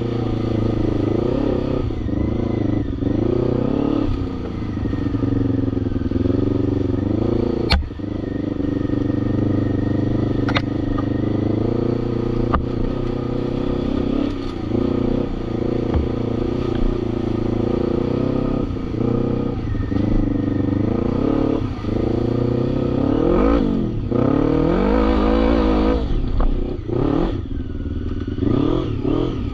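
ATV engine running and being revved, its pitch rising and falling over and over, with quicker, deeper revs near the end. A few sharp clicks or knocks come through along the way.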